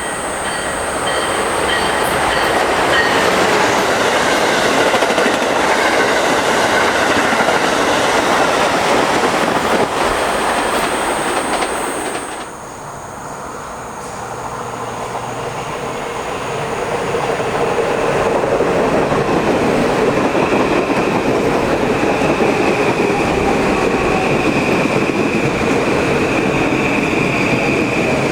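Electric passenger trains passing at speed on the New Haven Line, wheels rumbling and clattering over the rails. The sound breaks off abruptly about twelve seconds in, then another train builds up and passes with a steady high whine.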